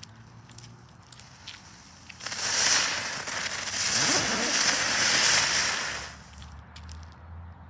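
A jumping jack ground-spinner firework going off: a loud spinning hiss that starts about two seconds in and runs for about four seconds before fading, after a few faint crackles.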